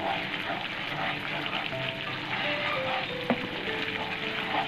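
Thick masala paste of onion, garlic, ginger and tomato sizzling in a frying pan as a spatula stirs and scrapes it. The sizzle comes from the masala being fried down until its oil separates.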